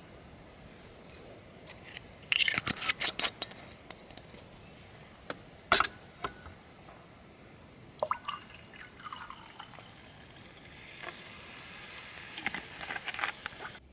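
Light clicks and clinks of small hard objects being handled, in four short clusters with quiet between them.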